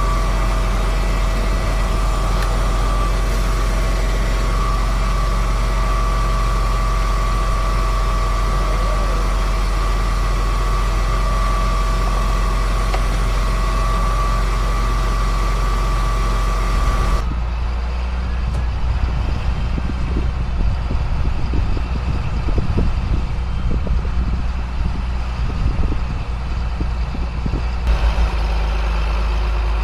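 2005 John Deere self-propelled sprayer running steadily in the field: a constant low engine drone with a steady high whine over it. About two-thirds of the way through the sound changes abruptly: the whine drops out and an uneven, gusty rumble takes its place, then it changes again near the end.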